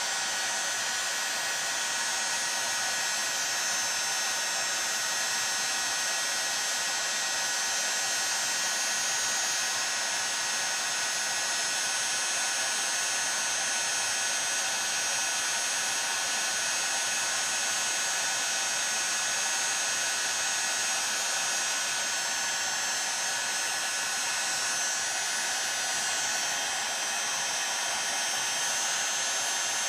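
Electric heat gun blowing steadily, its fan and heated air a constant hiss, warming an aluminium chainsaw crankcase so the bearing will slip over the crankshaft.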